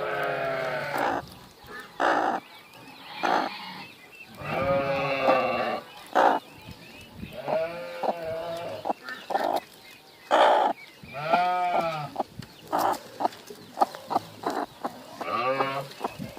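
Livestock bleating repeatedly: long quavering calls that waver in pitch, about every three to four seconds, with short harsh cries between them.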